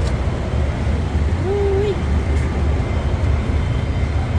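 A large engine running steadily with a low rumble, with one short voiced sound, like a brief call or whine, about a second and a half in.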